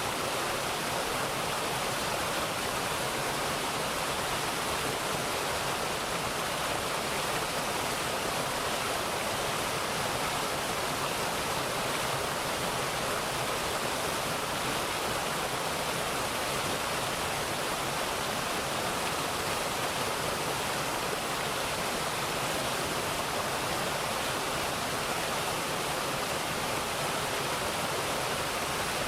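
Mountain valley stream rushing steadily over rocks, an even, unbroken water sound.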